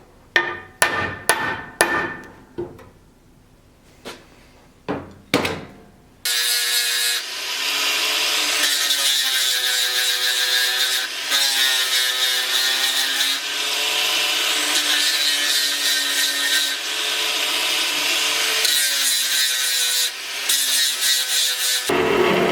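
About a dozen hammer blows on metal, each ringing briefly, spaced about two a second over the first six seconds. Then a power tool, a grinder or sander, starts suddenly and runs steadily, its pitch sagging and recovering as it works the piece.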